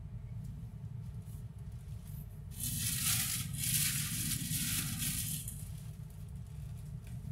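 Steady low rumble of a moving train, with a louder burst of hissing, rustling noise starting about two and a half seconds in and lasting about three seconds.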